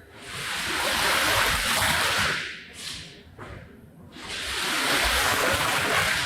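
Water spraying onto a wet rug in two long passes, each swelling in and fading out over about two seconds.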